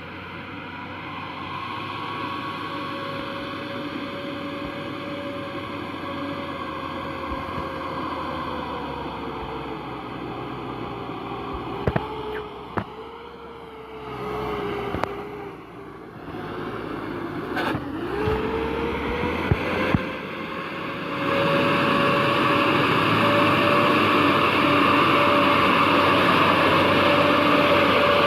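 A vehicle engine running with a steady high whine that dips in pitch around the middle and then climbs back. A few sharp clicks or knocks come in the middle, and the sound gets louder for the last third.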